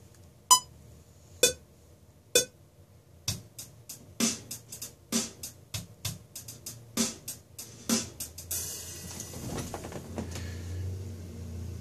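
Programmed sampled drum kit playing back a slow drum loop in 3/4 time, with kick, snare and hi-hat. It starts with three single hits about a second apart, then settles into a fuller groove, and a ringing wash takes over near the end.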